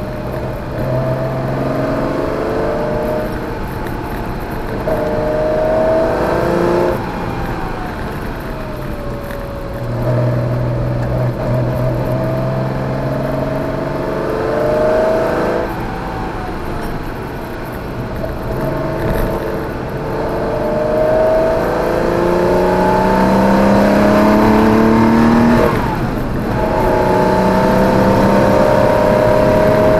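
Porsche 914/6's air-cooled flat-six engine heard from inside the cabin, accelerating hard through the gears. The pitch climbs and then drops at each gear change, several times over, with lifts and downshifts for the corners.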